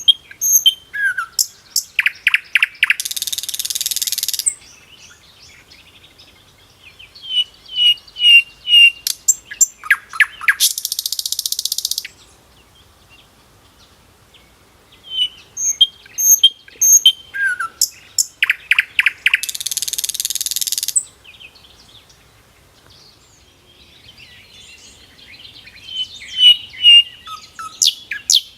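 A songbird singing the same phrase over and over, about every eight seconds: a few chirps, a rapid trill, then a long buzzing hiss that cuts off, with quiet between phrases.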